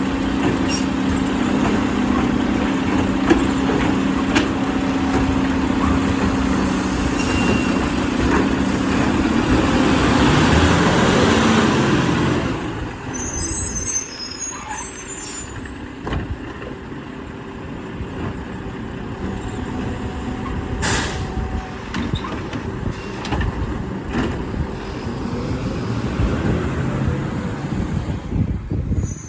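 Mack LR garbage truck's diesel engine running at raised revs with a steady drone, the pitch falling away about eleven seconds in as it settles back to a quieter idle. A few sharp hisses or clunks come through later on.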